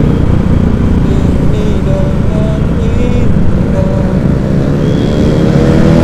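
Busy road traffic: a dense low rumble of vehicle engines, with an engine rising in pitch as it speeds up near the end.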